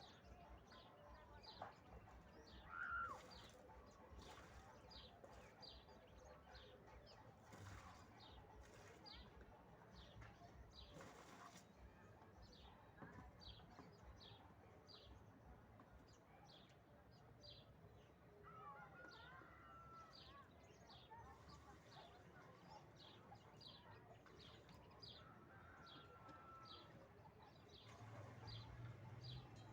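Faint outdoor ambience: a short high chirp repeating about one and a half times a second, with a few brief chirping calls now and then.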